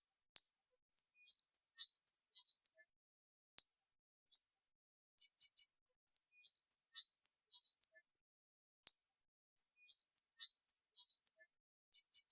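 Kemade bird singing clear, high-pitched notes, mostly quick rising or falling slurs in groups of several with short pauses between them. A fast run of short chips comes about five seconds in and again near the end.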